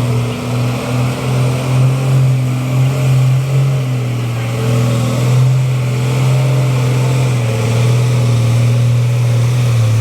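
A heavy vehicle's engine pulling up a steep climb, a loud low drone that wavers for the first few seconds and then holds steady.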